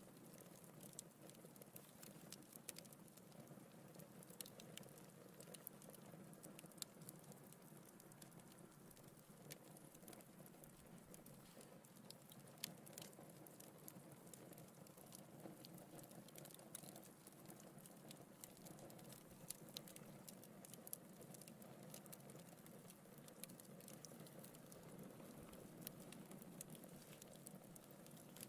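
Wood fire in a fireplace crackling faintly: irregular sharp pops and snaps from the burning logs over a soft, steady low rush.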